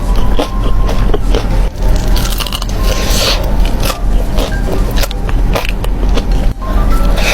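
Crunching bites and chewing of crispy fried chicken: many irregular crackly crunches.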